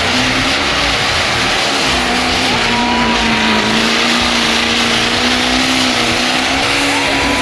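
A burnout vehicle's engine held at high, nearly steady revs, its pitch wobbling slightly, over a loud continuous hiss.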